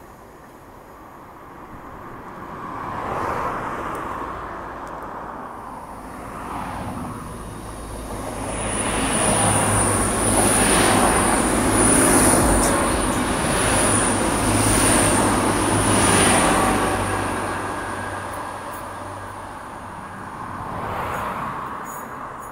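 TransPennine Express Class 802 bi-mode passenger train passing close by at speed. Its running noise builds and peaks for several seconds, with a steady low hum and a thin high-pitched whine, then fades. Near the end a second train's running noise briefly swells as it approaches.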